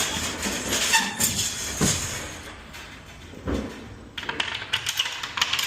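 Knocks, thuds and rattling clatter of cargo being handled and secured in the back of a box truck, with a burst of rapid clicks and rattles near the end.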